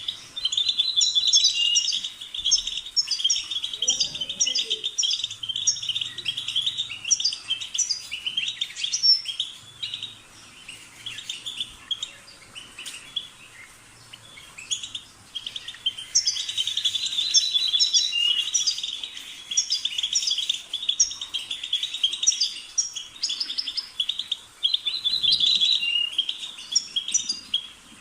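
European goldfinch singing: long bouts of fast, liquid twittering and trills, with a quieter stretch of scattered notes in the middle.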